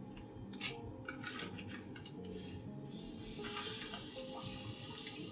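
Light clinks of dishes and utensils, then water starting to run steadily from a tap about three seconds in, over soft background music.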